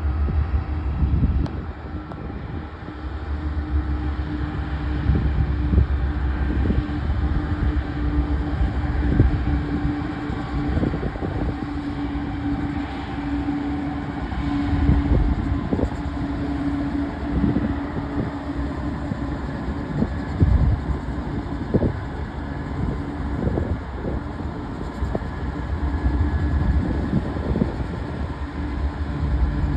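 Union Pacific diesel-led freight train running past: a steady low rumble with a held tone, broken by frequent irregular knocks.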